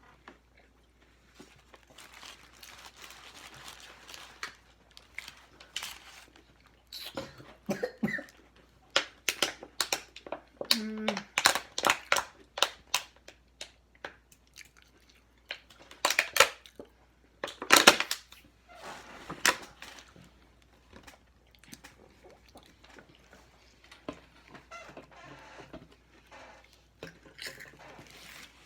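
Close-up biting and chewing of a crispy fried chicken sandwich: irregular crunches and wet chews, loudest in the middle stretch.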